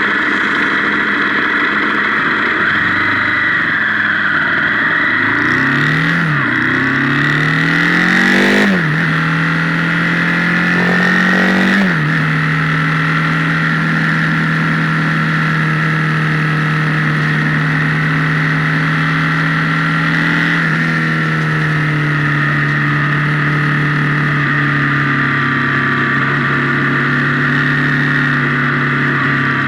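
Motorcycle engine accelerating up through the gears, its pitch climbing and dropping at each upshift in the first twelve seconds, then holding a steady cruise with the pitch slowly easing down. It is recorded loud and overdriven by an onboard camera.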